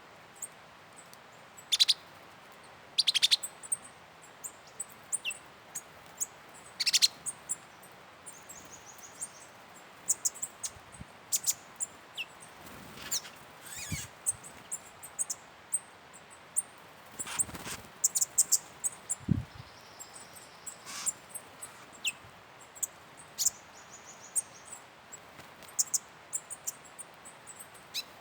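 Wild birds calling: many short, high chirps and trills coming irregularly, several at a time, over a faint steady background hiss.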